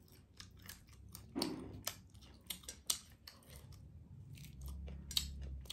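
Close-miked crunching and chewing of crispy fried chicken, a run of irregular sharp crunches and mouth clicks.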